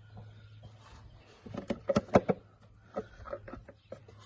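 A quick cluster of sharp clicks and knocks about a second and a half in, then a few more near the end, over a steady low hum.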